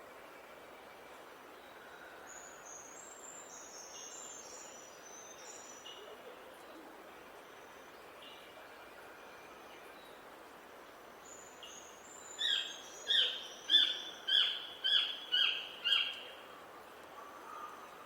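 Wild birds singing over a steady faint outdoor hiss: thin high chirps early on, then near the end a loud run of about seven repeated call notes, roughly two a second.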